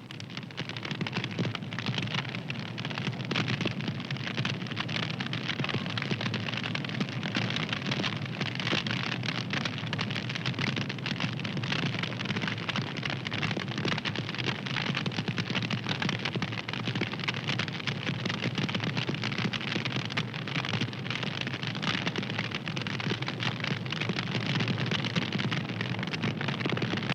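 Fire crackling steadily: a dense run of small pops and snaps over a continuous hiss.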